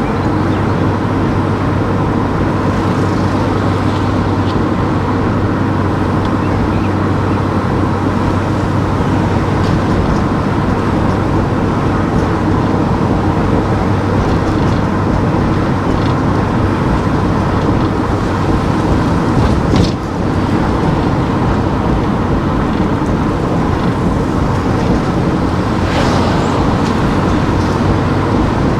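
A car driving on town streets: steady engine hum and tyre and road noise.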